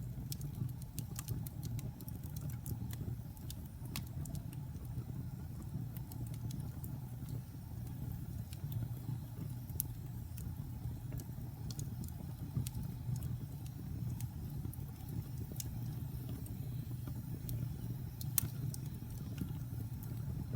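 Wood fire burning in a fireplace: a steady low rumble of flames with irregular crackles and sharp pops from the burning logs, one louder pop near the end.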